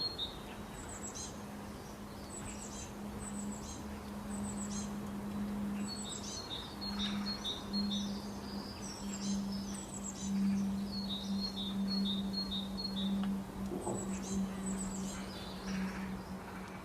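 A small bird chirping in quick runs of short, high chirps, pausing briefly between runs, over a steady low hum.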